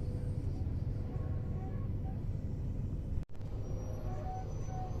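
Steady low rumble of a moving passenger train heard from inside the carriage. It breaks off for an instant a little past halfway, then carries on with a few faint thin tones above it.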